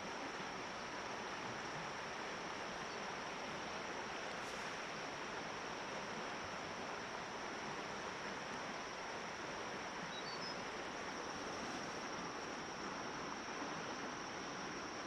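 Steady outdoor ambience: an even rushing noise under a constant high-pitched insect drone, with a few faint chirps about ten seconds in.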